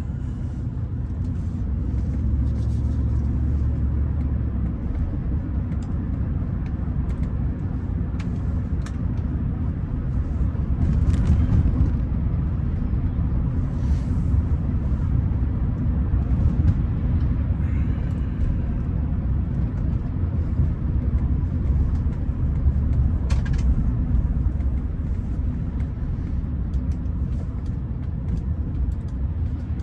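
Steady low rumble of a running car, engine and road noise, with a few faint clicks above it; it swells a little about a third of the way in.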